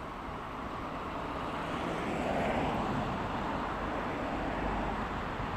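A ChS7 electric locomotive and its passenger train approach along the track with a steady rolling rumble. The rumble grows louder over the first couple of seconds, then holds.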